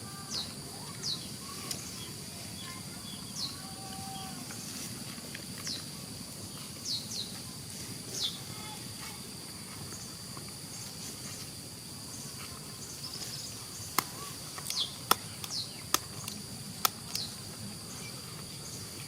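Rural outdoor ambience: a steady, high-pitched insect drone with many short, falling bird chirps over it. A few sharp clicks come near the end.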